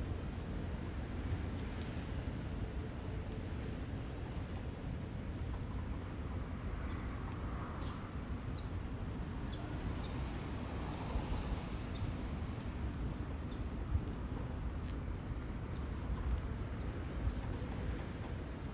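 Small birds chirping: many short, high, falling chirps, most of them in the middle stretch, over a steady low outdoor rumble.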